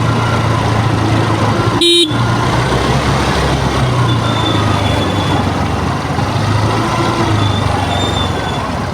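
Vehicle engine running steadily with road-traffic noise, and a single short horn toot about two seconds in.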